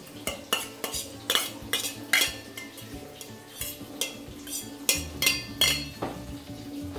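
Stainless steel spoon clinking and scraping against a bowl and the wok as chopped spring onions are pushed into the pan: a dozen or so sharp metallic taps with short ringing, loudest about five seconds in.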